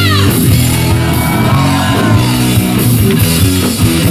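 Rock band playing live at full volume, with a lead line sliding up and down in pitch over the band.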